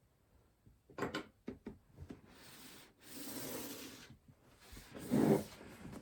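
Computer parts being handled by hand: a few sharp clicks, then a rubbing, sliding scrape lasting about two seconds, and a louder scrape near the end.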